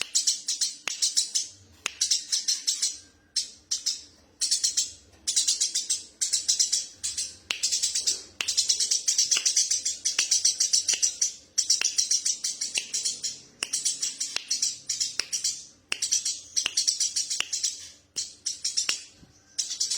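Eurasian tree sparrow chattering: rapid, rattling, high-pitched chirps in runs of about one to two seconds, broken by brief pauses.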